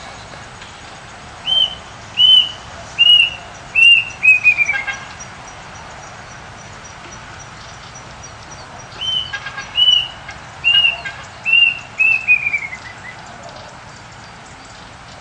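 A songbird singing twice: each phrase is four or five clear, repeated whistled notes ending in a quick falling trill, over a steady background hiss.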